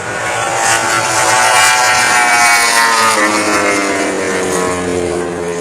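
Racing motorcycle engine passing at high revs, its note loud at first and then falling steadily in pitch as it goes by.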